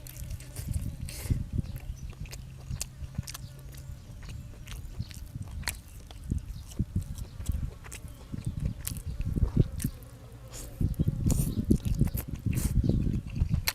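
Close-up mouth sounds of a person biting and chewing food, with many sharp clicks over steady low chewing noise that grows busier and louder near the end.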